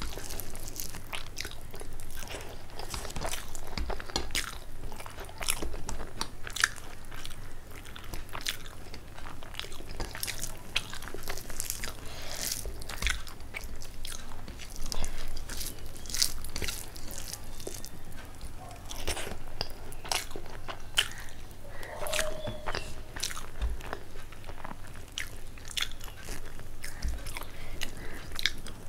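Close-miked chewing and crunching of a person eating a meal of rice and curry: irregular wet mouth clicks and bites throughout.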